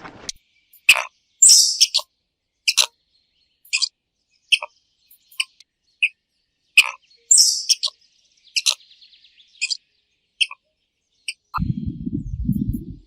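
A bird calling in short, sharp chirps and squawks, one or two at a time with brief silences between. Near the end a low, pulsing rumble starts.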